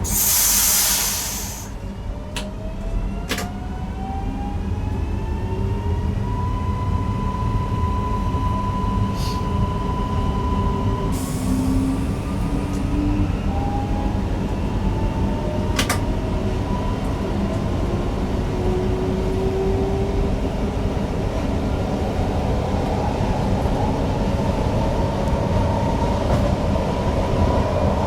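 Newag Impuls EN63 electric multiple unit running, heard from the driver's cab: a steady rumble of wheels on the track under a whine from the traction drive that rises in pitch in several steps as the train gathers speed. A short hiss at the very start and a few sharp clicks.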